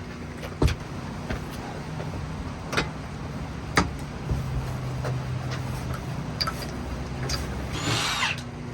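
Mitsubishi Lancer Evolution VIII's turbocharged 4G63 inline-four idling steadily on a cold start, which the owner says sounds kind of like a rotary. A few sharp knocks sound over it, and a brief hiss near the end.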